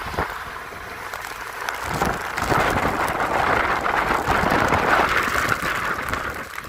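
Storm wind and driving rain in a severe thunderstorm: a steady rushing hiss with low buffeting gusts, swelling about two seconds in and easing off near the end.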